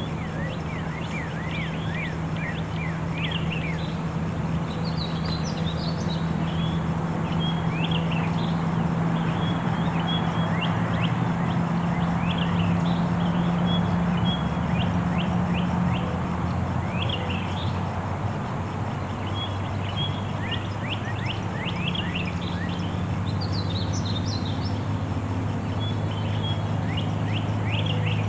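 Birds calling in many short, repeated chirps and quick chattering clusters, over a steady low hum.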